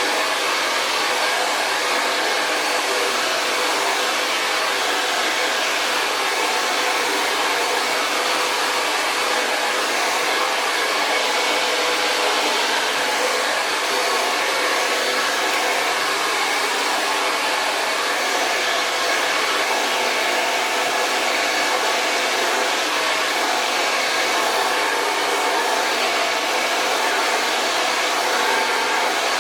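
Handheld hair dryer running steadily at a constant speed, blowing a steady rush of air while drying thick natural hair.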